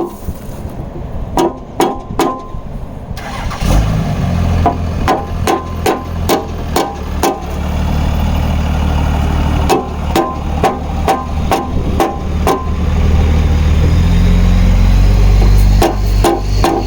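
Runs of quick hammer blows on metal, each strike ringing briefly, several to a burst, as the bent engine parts under the Jeep are beaten back into shape. About three and a half seconds in, another vehicle's engine starts and keeps running at idle underneath, louder near the end.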